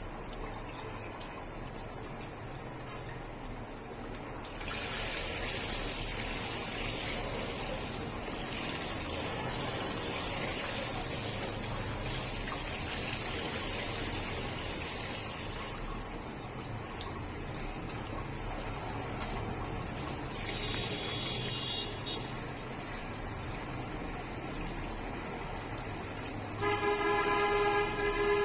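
Water running or pouring in a steady hiss for about ten seconds, starting a few seconds in. Near the end a vehicle horn sounds once, for under two seconds.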